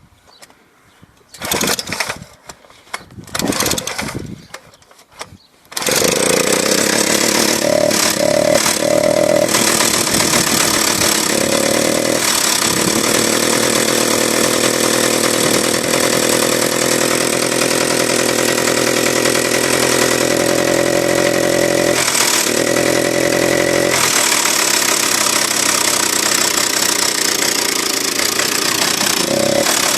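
Druzhba-4 two-stroke chainsaw engine, fitted with a high-compression cylinder head from a petrol generator, starting: two short bursts, then it catches about six seconds in and runs loudly and steadily, its revs shifting briefly a few times.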